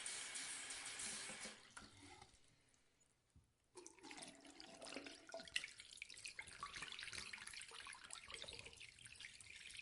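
Bathroom sink faucet running into the basin, with irregular splashing and dripping, starting abruptly after a brief near-silent gap about three and a half seconds in. Before the gap, an earlier hissing sound fades away.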